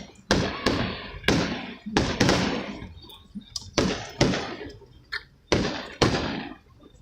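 Aerial fireworks shells bursting overhead in quick succession, about ten sharp bangs, each trailing off in a rumbling echo.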